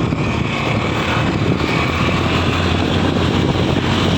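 Steady engine rumble and road noise from a moving vehicle, with wind buffeting the microphone.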